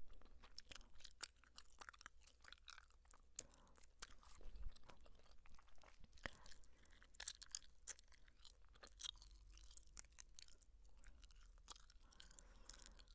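Chewing gum heard close up: quiet, irregular mouth clicks and smacks.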